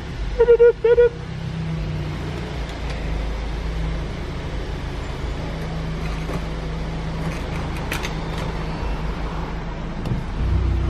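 Car engine idling with a steady low rumble, picking up near the end as the car pulls away. About half a second in comes a loud double beep, and there are a few faint clicks around eight seconds.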